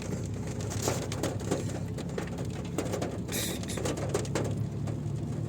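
Low steady hum of a vehicle's engine heard from inside the cabin while it sits in slow ghat-road traffic, with scattered light ticks and taps.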